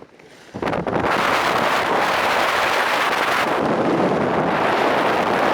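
Strong wind blowing hard across the microphone, rumbling steadily after it hits about half a second in.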